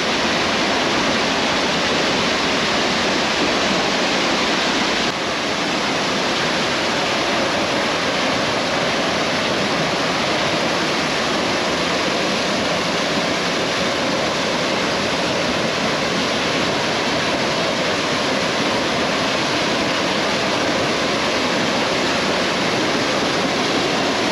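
Tunnel Falls, a tall waterfall, pouring with a loud, steady rush of water.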